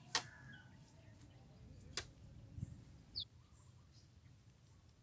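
Two sharp clicks about two seconds apart, then a short falling bird chirp, over a faint low outdoor background.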